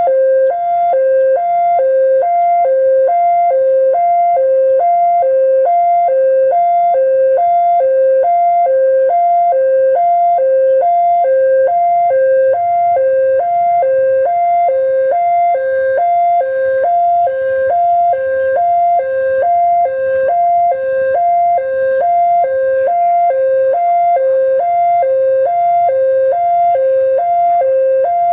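Railway level-crossing warning alarm sounding a loud electronic two-tone signal, switching between a lower and a higher note about three times a second without a break: the warning that a train is approaching and the crossing is closing.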